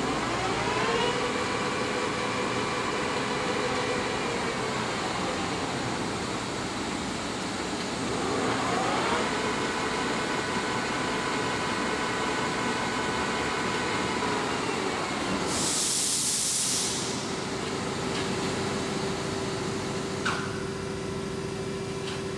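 Poreba TPK-80 engine lathe headstock spinning up with a rising gear whine, running steadily and winding down, then doing the same again. A short burst of hiss follows about sixteen seconds in, and a steady motor hum remains after it.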